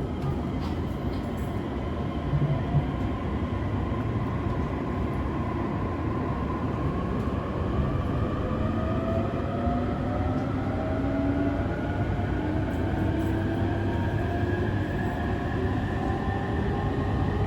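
E531 series electric train's Hitachi IGBT inverter and traction motors whining, several tones climbing steadily in pitch as the train accelerates, over the steady rumble of the wheels on the rails, heard from inside the car.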